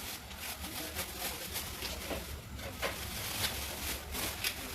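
Irregular light clicks and rustles, a few a second, over a low steady hum.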